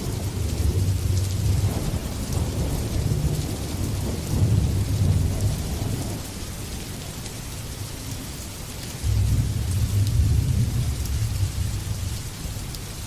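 Steady heavy rain with low rolling thunder; a new rumble of thunder breaks in suddenly about nine seconds in and fades away near the end.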